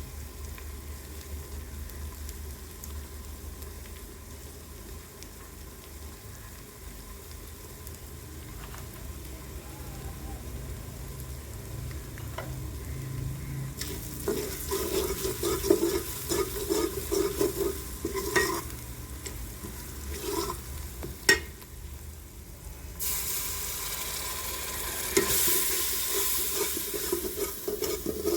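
Chicken karahi frying in a karahi pan, stirred with a spoon that scrapes and clacks against the metal. The first half is quieter with a low hum. The sizzling starts about halfway through and turns much louder and hissier near the end.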